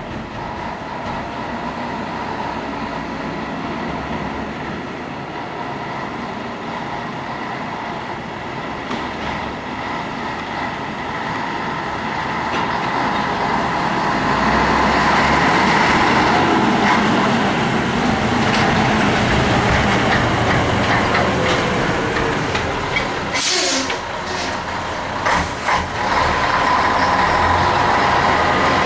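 Scania 112H truck's diesel engine running steadily, getting louder about halfway through, with two short hisses of air near the end, typical of the truck's air brake system.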